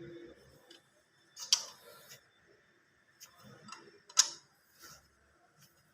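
A few sparse, light clicks and taps, the loudest about one and a half seconds in and again about four seconds in, from metal tools and engine parts being handled.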